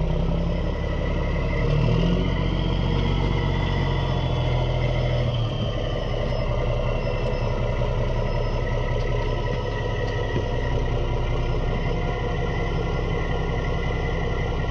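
Heavy diesel engine running steadily, its pitch rising briefly about two seconds in and then settling.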